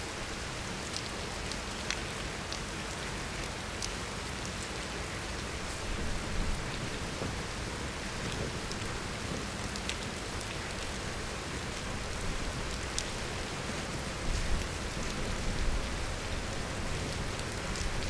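Steady heavy rain falling, with scattered sharp ticks of single drops striking nearby.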